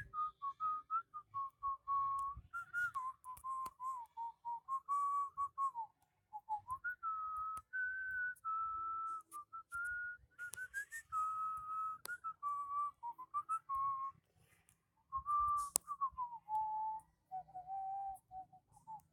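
A tune whistled one note at a time, with short slides between the notes and a brief pause about six seconds in and again about fourteen seconds in.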